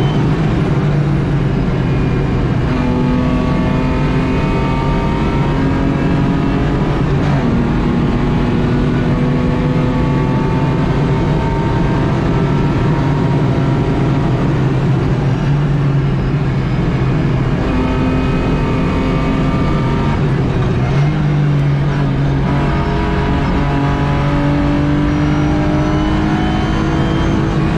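In-cabin sound of a race-prepared BMW E36 at speed: the engine pulling under load, its pitch climbing slowly over long stretches and dipping or jumping a few times with lifts and gear changes, over loud road and wind noise.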